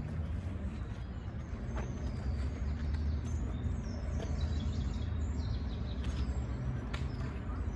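Small birds chirping and singing in short high phrases over a steady low rumble.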